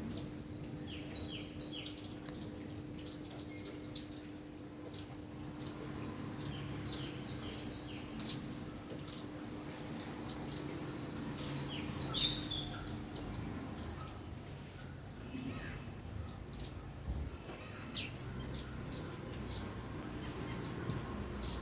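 Small birds chirping, many short high chirps repeated throughout, over a steady low hum that stops about two-thirds of the way through.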